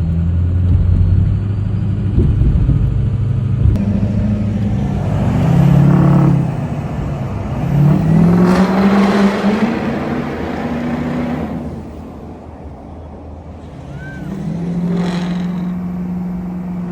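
2004 Ford F-250's 6.0L Power Stroke V8 turbodiesel pulling under acceleration. A steady drone at first gives way to pitch that climbs and drops back several times as it shifts through the gears.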